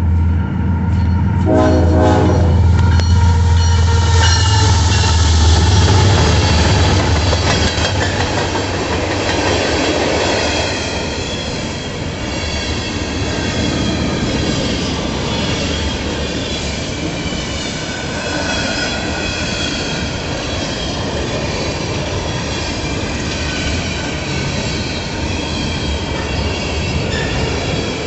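BNSF coal train going by at close range: the GE ES44AC diesel locomotives' engines run with a heavy low hum as they approach and pass, with a short horn blast about two seconds in. Then the coal hopper cars roll past with steady wheel noise, squealing wheels and clickety-clack.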